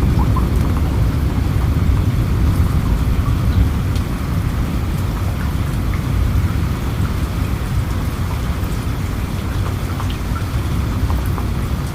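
Steady rain with a deep low rumble underneath and scattered drop ticks, easing slightly in level after about four seconds.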